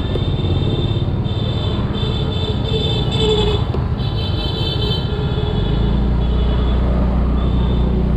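Small Yamaha scooter, about 125 cc, riding through busy city traffic: steady engine and wind rumble, with high horn beeps coming and going over it. About two-thirds of the way in, the low rumble settles into a steadier drone.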